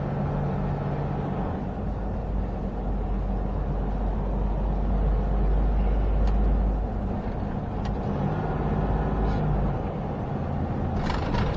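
Semi truck's diesel engine and road noise droning steadily inside the cab on a steep 7% downgrade, the engine brake (Jake brake) holding the truck's speed instead of the service brakes.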